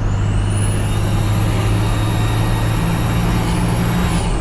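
Nissan TD42T turbo-diesel straight-six running under load with a steady low drone. Its turbocharger whistle rises in pitch over the first second, holds high, then falls away near the end.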